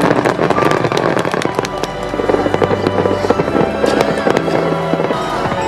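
Distant fireworks bursting and crackling in dense succession, with music playing underneath.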